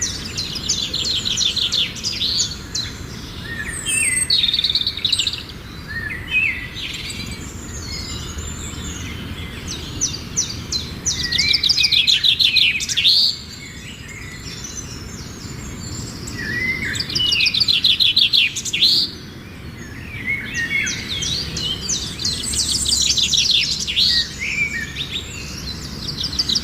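Small birds chirping back and forth in repeated chattering bouts of rapid trilled notes, each bout a second or two long.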